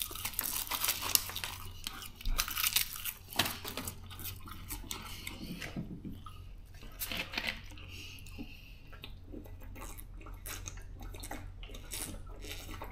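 A person chewing and crunching a crisp snack close to the microphone: irregular small crunches and clicks throughout.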